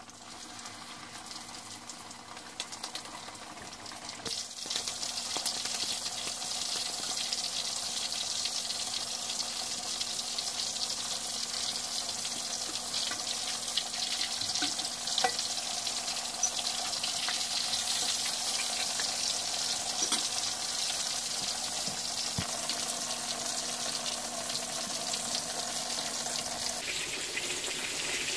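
Chapli kabab patties shallow-frying in hot oil in a cast-iron skillet, a steady sizzle that grows much louder about four seconds in, with a few sharp clicks through it.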